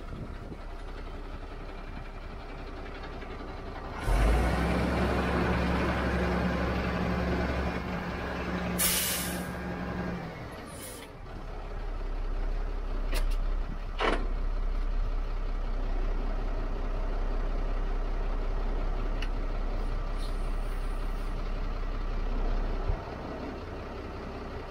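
Tow truck's diesel engine running, growing louder about four seconds in for some six seconds, with a short sharp hiss of compressed air near nine seconds and a few smaller air hisses and clicks after. The low engine hum drops away near the end.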